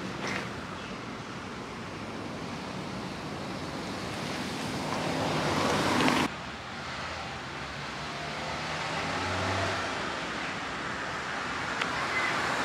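Street traffic on wet roads: cars passing with tyre hiss that swells to a peak about six seconds in and then cuts off suddenly, followed by steadier traffic noise with a low engine hum.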